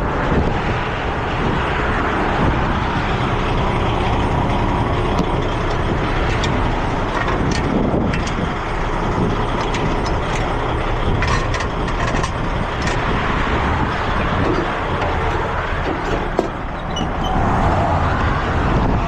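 Heavy truck engine running steadily, with scattered light clicks and rattles over it.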